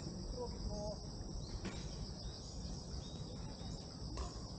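Insects chirring in a steady high-pitched drone, with faint distant voices.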